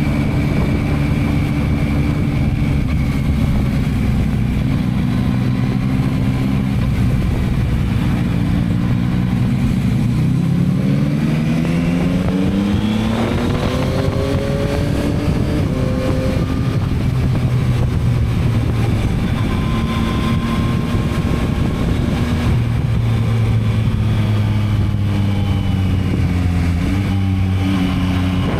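Yamaha MT-09's 890 cc inline three-cylinder engine with its stock exhaust, running under way. It holds steady, then revs up in a long rising pull from about ten seconds in, and the revs drop sharply after about five seconds. It then runs steadily again with a few further changes in pitch.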